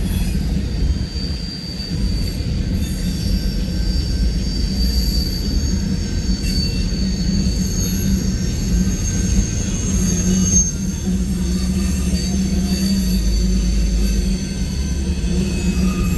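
Train wheels squealing steadily as the train rounds the curve of the junction, the wheel flanges grinding against the rail, over a low rumble of the rolling cars. The squeal is several high, slightly wavering whistling tones.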